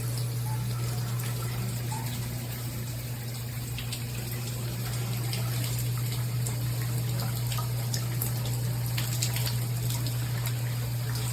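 Faint trickling and dripping water with scattered small ticks at the shower head's pipe connection, under a steady low hum that is the loudest thing heard.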